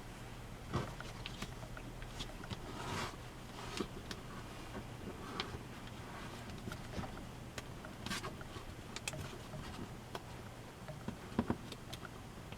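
A sheet of origami paper being handled and folded: soft rustles and brief crisp creasing sounds and taps come irregularly, over a faint steady hum.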